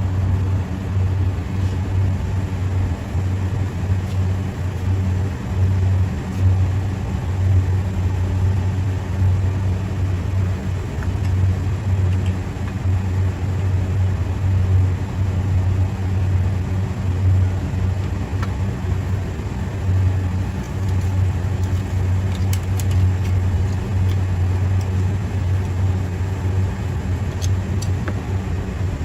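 Steady low mechanical hum of running machinery, with a few faint small clicks in the second half.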